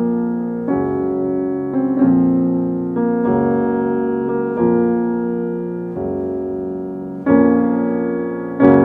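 Background music: a slow solo piano, sustained chords changing about once a second, each fading after it is struck, with a louder chord near the end.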